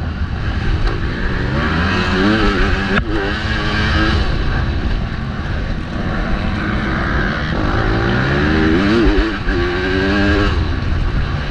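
MX2 motocross bike engine revving hard, its pitch climbing and dropping again and again as the rider works the throttle and gears, with heavy wind rumble on a helmet-mounted microphone. A single sharp knock about 3 seconds in.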